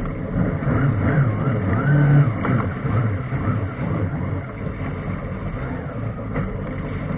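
Personal watercraft (jet ski) engine running under way, its pitch rising and falling as it revs in the first few seconds, then settling to a steadier drone.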